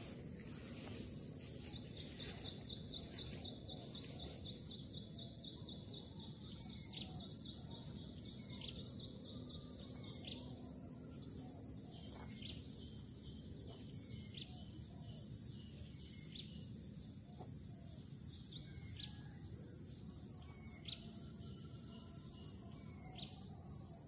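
Small bird repeating short, high downward chirps every second or two, over a steady high-pitched insect drone. A rapid ticking trill runs through the first third.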